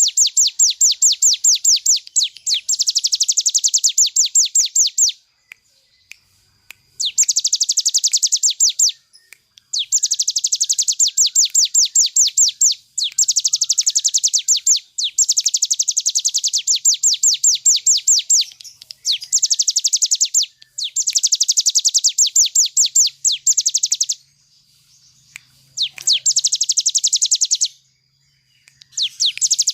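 Ciblek gunung (a mountain prinia) singing gacor in its ngebren style: long, rapid trills of sharp repeated notes, each run lasting two to four seconds with short pauses between them.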